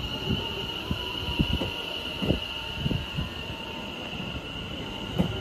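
A train moving at a station platform: a steady high-pitched whine over rumbling noise, with irregular low thumps.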